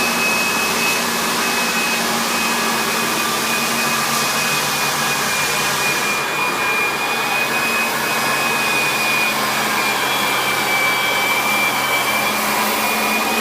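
Floor sander running steadily, a loud rushing hiss with a high whine that wavers slightly in pitch.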